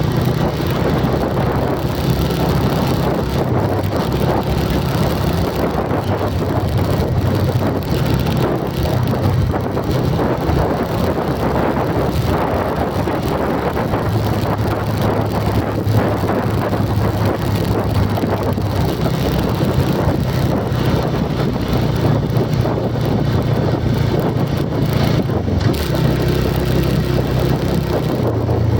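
A vehicle engine running steadily, with its low hum shifting a little in pitch, under constant wind and road noise, as from inside or on a moving vehicle.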